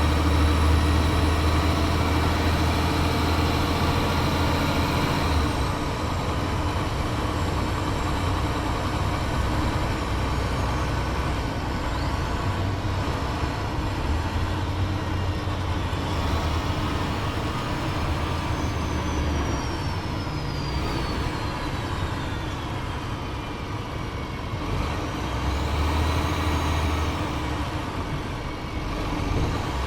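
Cummins ISL diesel engine of a 2007 Gillig Advantage transit bus running as the bus drives, driving through a Voith DIWA automatic transmission. A strong low hum drops away about five seconds in and comes back near the end, and a high whine falls slowly in pitch through the middle.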